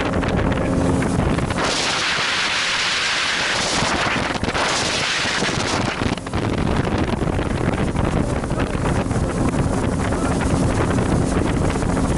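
Wind buffeting the microphone on a boat at sea, with a faint steady hum underneath. From about two seconds in, a loud hissing rush lasts several seconds, broken briefly in the middle.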